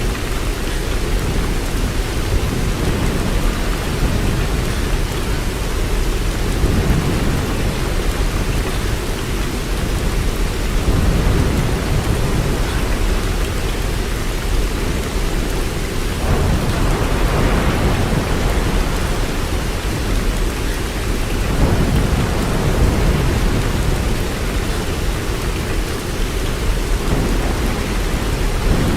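Steady rain with a continuous low rumble. The rumble swells a few times, most strongly for several seconds from a little past the middle.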